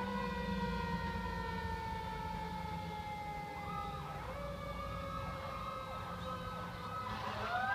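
Seagrave tiller ladder truck running with its siren on. The siren's pitch rises quickly, sags slowly, then rises again near the end, over the low rumble of the truck.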